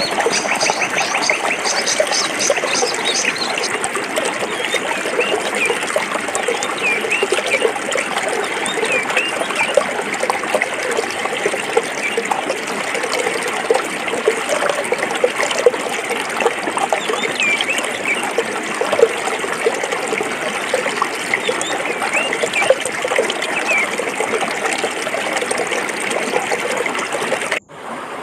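Forest stream running over rocks: a steady trickling and gurgling of water. Near the end it breaks off for an instant and comes back quieter.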